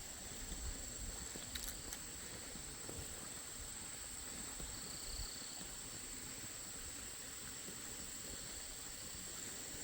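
Faint, steady rushing of a waterfall, with a continuous high-pitched whine over it and a couple of light clicks under two seconds in.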